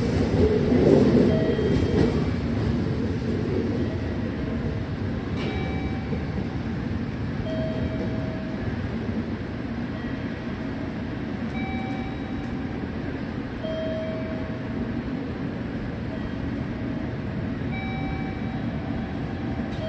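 JR Kyushu 415 series electric train pulling out of the station, its running rumble loudest at first and easing off as it draws away. Short, faint high tones come and go over it now and then.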